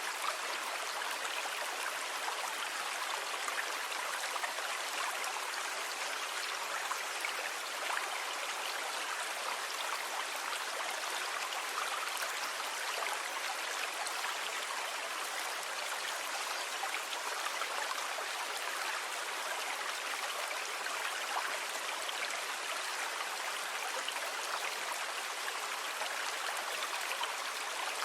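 Sea water washing steadily with a fine fizzing crackle, an even rush with no separate wave surges rising and falling.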